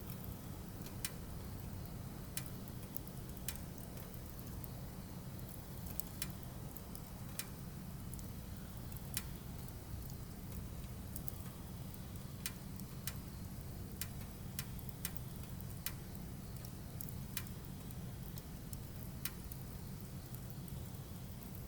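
Firewood burning: irregular sharp crackles and pops, a couple of dozen spread over the stretch, over a steady low rumble.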